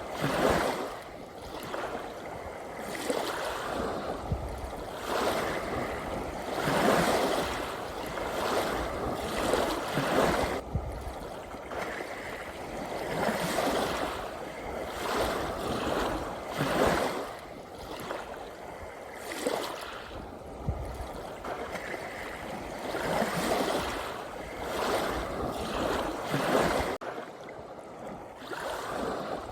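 Ocean waves washing in and drawing back, a swell of surf noise every couple of seconds, with a brief sudden dip in the sound near the end.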